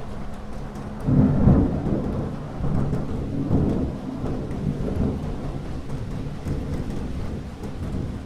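A thunderclap about a second in, followed by rolling thunder that swells several times and slowly dies away, over steady rain.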